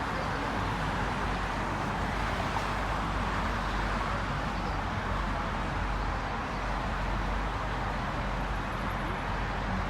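Steady road-traffic noise, an even rush with a low rumble beneath and no single vehicle or event standing out.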